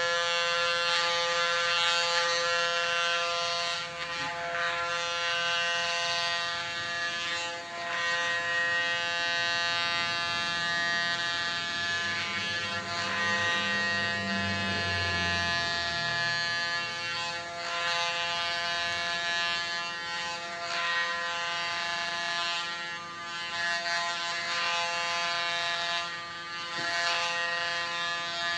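Electric hair clipper set to 0.8 mm running steadily, buzzing a head down to a shaved buzz cut. A lower hum swells for a few seconds around the middle.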